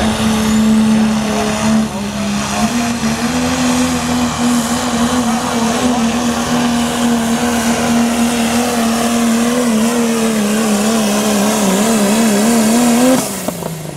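Diesel pulling truck's engine running flat out under load as it drags the sled, holding a steady high pitch with turbo whine on top. The pitch starts to waver and bounce near the end, then drops away sharply as the driver lets off at the end of the pull.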